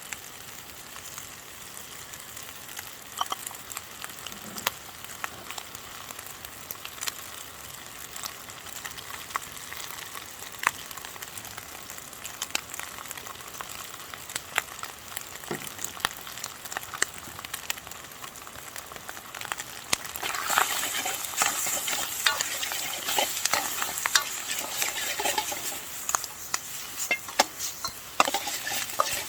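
Fried rice sizzling in a Chinese wok over a wood fire, with frequent sharp clicks and scrapes of a utensil stirring it against the wok. About two-thirds of the way through the sizzle turns louder for several seconds, then drops back near the end.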